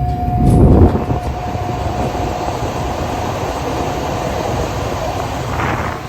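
Lennox G32Q3 gas furnace firing up on a new control board and igniter: a loud low rush about half a second in as the burners light, then a steady rumble of flame and fans running.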